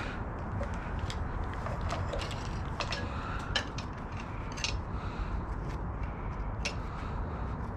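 Scattered metallic clicks and clinks of hand tools and loose parts as a rusty car is taken apart, coming at irregular intervals over a steady low background rumble.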